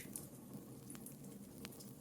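Wood fire burning, with a low steady rush of flame and scattered sharp crackles and pops of the burning logs.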